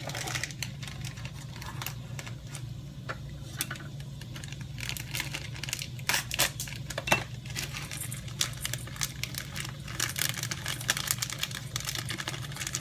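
Light kitchen clatter: irregular small clicks and taps of utensils and containers being handled, over a steady low hum.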